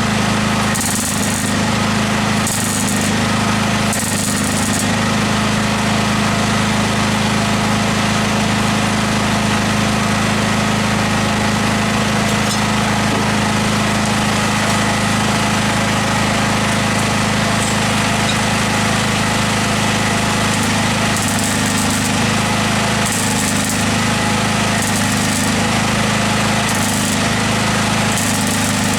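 A machine motor running steadily at a constant level, with short bursts of high hiss repeating about every second and a half near the start and again near the end.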